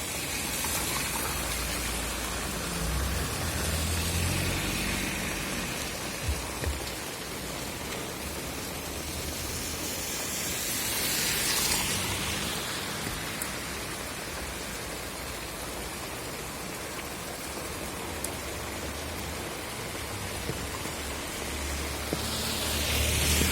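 Steady rain falling on surfaces, a continuous hiss that swells briefly about halfway through. Low rumbles come and go underneath, and there are two short knocks about six seconds in.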